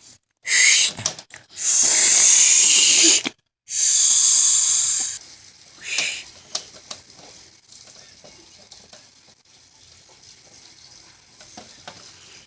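A child's mouth-made 'shhh' sound standing in for a running shower in doll play: three long hisses with short breaks, a shorter one a little later, then faint clicks as the dolls are handled.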